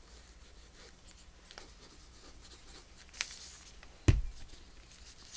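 Hands working paper and thread on a craft table: light rustling and scratching, a brief scrape about three seconds in, then a single dull thump just after four seconds.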